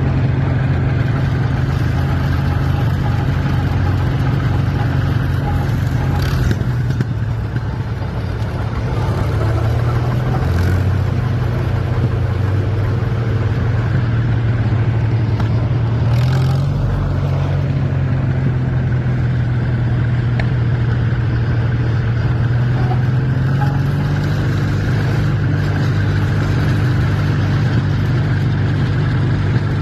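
Farm tractor engine running steadily, its pitch shifting slightly a couple of times and stepping up a little about three-quarters of the way through.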